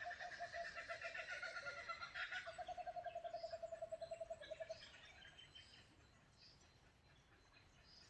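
A bird gives a long, fast run of low hooting notes, about eight a second, which stops about five seconds in; fainter higher bird calls sound alongside and after it.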